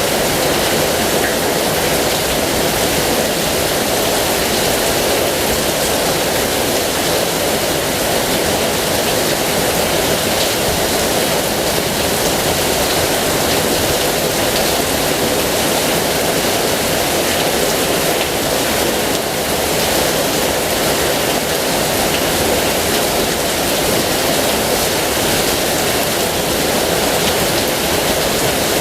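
Heavy rain falling steadily, an even, unbroken hiss of dense drops.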